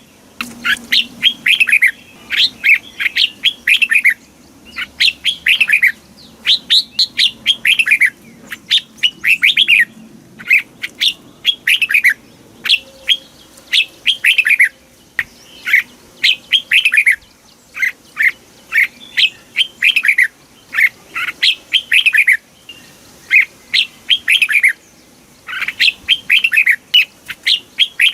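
Red-whiskered bulbul singing: phrase after phrase of quick, bright whistled notes, many sliding down in pitch, with a short pause every second or two.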